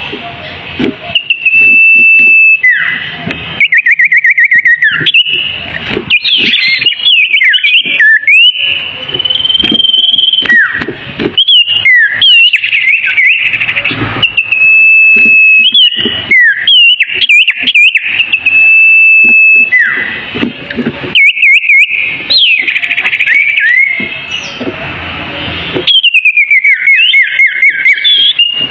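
Songbird known in Indonesian as burung kunyit singing loudly and continuously: long steady whistled notes alternating with fast trills and falling whistled phrases, phrase after phrase. A low rumble sits under parts of the song.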